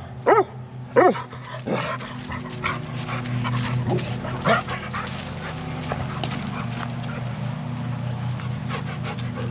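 A dog barks about three times in the first two seconds, short arched yips. A steady low hum and scattered faint clicks run underneath.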